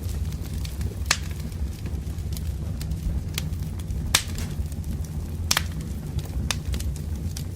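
Wood campfire crackling: sharp pops, the loudest about four seconds in, and smaller ticks scattered over a low, steady rumble of burning logs.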